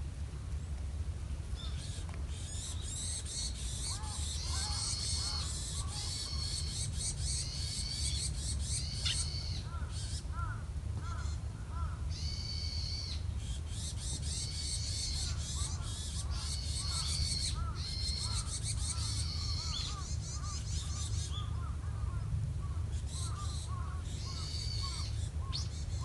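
Wild birds calling: repeated runs of rapid, high chattering calls a few seconds long with short gaps between them, mixed with softer short chirps, over a steady low background rumble.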